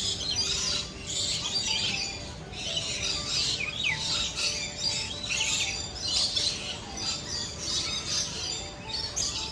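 Many birds chirping and squawking in a busy, overlapping chorus, with background music underneath.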